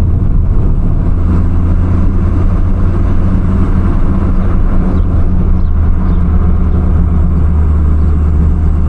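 Audi S3 8P's turbocharged 2.0 TFSI four-cylinder, tuned to about 300 hp with an aftermarket downpipe, running at a steady pace while driving: a loud, even, low drone with road noise.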